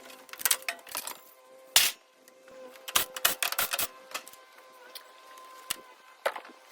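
Irregular sharp metallic clicks and clinks of hand tools and loose metal parts as HVAC equipment is taken apart, in quick clusters with the loudest knocks about two seconds and three to four seconds in.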